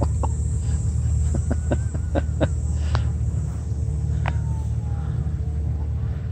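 A large engine running steadily with a low rumble, overlaid by scattered sharp clicks and crackles in the first few seconds and a short falling tone about four seconds in.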